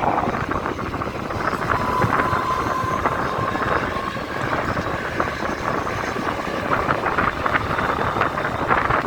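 Mumbai suburban electric local train running on the rails: steady rumble and rattle with wind buffeting the microphone. A thin, steady high tone sounds for about two seconds near the start.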